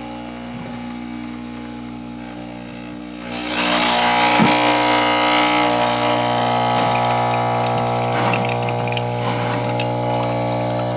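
Home espresso machine pulling a double shot: the pump hums steadily, and about three and a half seconds in a louder hissing, gurgling rush of coffee starts and keeps running.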